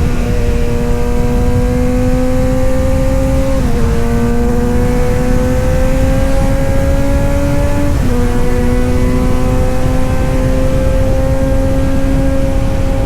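Kawasaki Z900 inline-four engine and exhaust running steadily under load. Its pitch climbs slowly and drops sharply twice, about 4 and 8 seconds in, as it shifts up a gear. A heavy low rumble lies beneath it.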